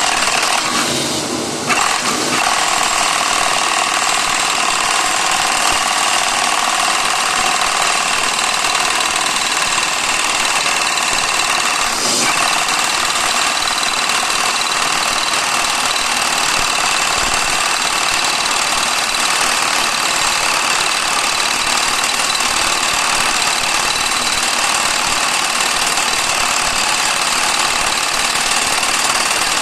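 Small power hammer running on test: its motor and rapid blows blend into a steady mechanical clatter that builds up over the first couple of seconds, then holds even.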